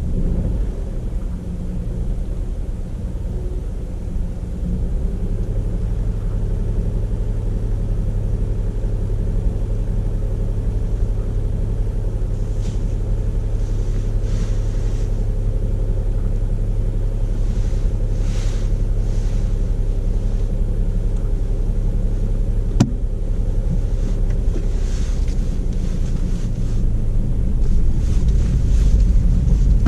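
Petrol car's engine and road rumble heard from inside the cabin as it moves off and drives along: a steady low drone that gets louder about five seconds in. There is one sharp click a little over twenty seconds in.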